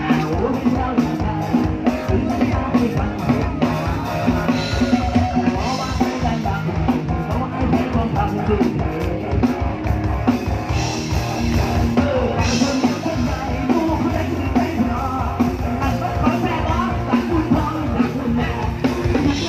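Live band music with a drum kit keeping a steady beat, and singing over it.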